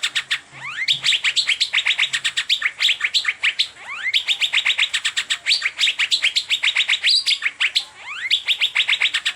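Asian fairy-bluebird (cucak biru) song: a fast, continuous chatter of short sharp notes, about eight to ten a second, broken now and then by quick upward-slurred notes.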